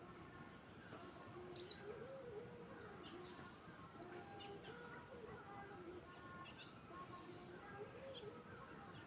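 Faint wild birds chirping: quick high twittering calls about a second in, again around two to three seconds, and near the end, over a low steady outdoor background.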